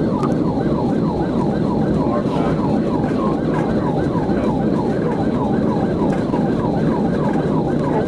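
Police car siren in a fast yelp, about three to four sweeps a second, over steady engine and road noise.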